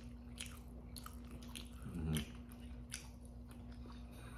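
Close-up mouth sounds of a person chewing a mouthful of burger: small wet clicks and smacks, with a short hummed "mm" about two seconds in.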